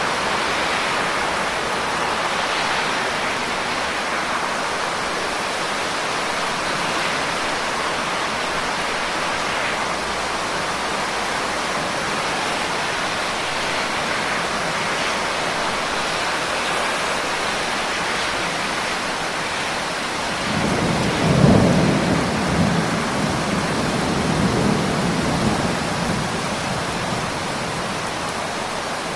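Steady rain falling. About twenty seconds in, a low roll of thunder swells, peaks and rumbles on in waves for several seconds before fading back under the rain.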